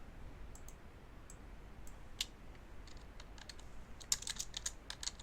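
Typing on a computer keyboard: a few scattered key clicks, then a quick run of keystrokes near the end.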